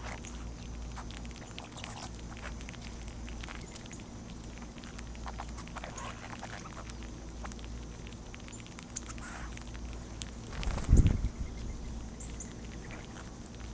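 Birds at a backyard seed feeder: scattered small pecking and scratching ticks and a few short, high chirps over a steady low hum, with one loud low thump about eleven seconds in.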